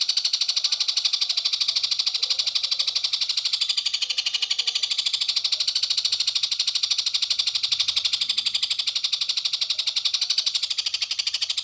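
A rapid, steady, high-pitched trill of even pulses, about ten a second, from a recorded call played to train a long-tailed shrike (cendet) to mimic it.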